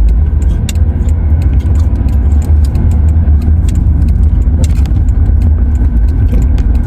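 Car cabin noise while driving: a loud, steady low rumble of road and engine with scattered light clicks and rattles.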